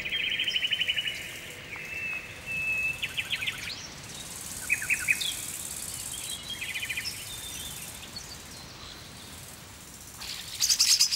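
Woodland birds calling: several short, rapid trills and a brief whistled note over a faint steady forest background, with a louder call near the end.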